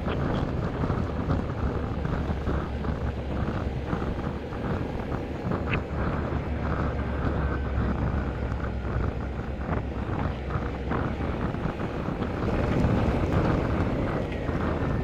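Motorcycle on the move: wind buffeting the rider's microphone over the steady running of the engine.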